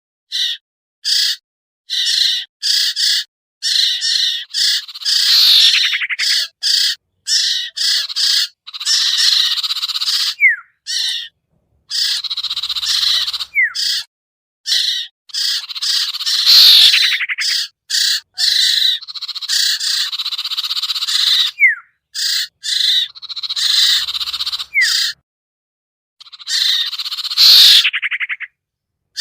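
Lure recording of common iora (cipoh, sirtu) calls: runs of short, sharp chirps alternating with longer chattering, trilling phrases, some sweeping downward, each passage stopping abruptly as if cut and looped.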